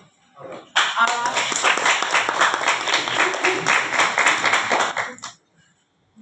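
Audience applauding. The applause starts about a second in and stops fairly abruptly about five seconds in.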